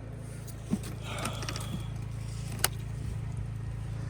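An engine idling steadily with a low, even hum. There is a soft thump about a second in and a single sharp click a little past halfway.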